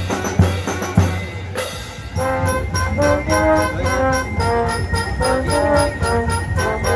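School band playing: drums beat alone for the first second or so, then brass enters about two seconds in with a melody of held notes over the drumbeat.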